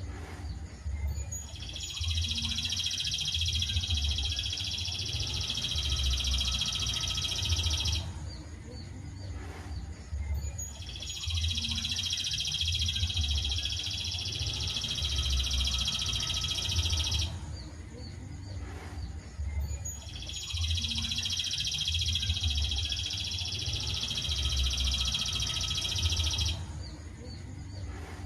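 Songbird singing long, dense high trills in three runs of six to seven seconds, with short pauses between them. A low, uneven rumble runs underneath.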